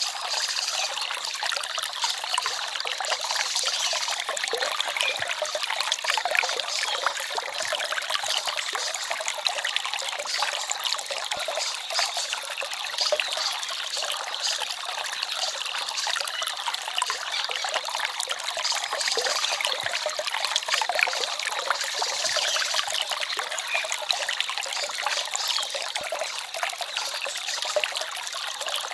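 Small forest stream babbling and trickling over stones, a steady bright rush of water.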